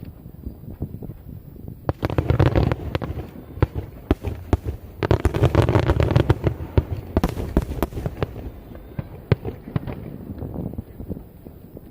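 Starmine fireworks barrage: rapid volleys of shell bursts and crackling in two dense waves, about two seconds in and again about five seconds in, thinning to scattered cracks near the end.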